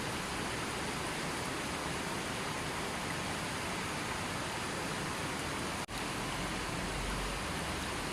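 Steady, even rushing of water, like rain or a waterfall, with no bird calls. It cuts out for an instant about six seconds in, then carries on.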